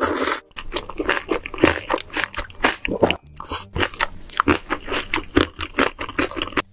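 Close-miked chewing of a mouthful of jjajangmyeon (black bean noodles): a short noisy moment at the start, then many quick, wet chewing clicks and smacks.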